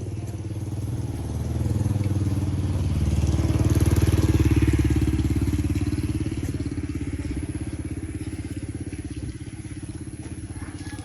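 A motorcycle engine passes close by, growing louder to a peak about four seconds in, then fading away.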